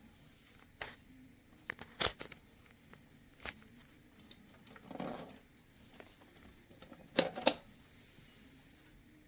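Irregular clicks and knocks of objects being handled, a few single ones and then two loud knocks in quick succession a little after seven seconds.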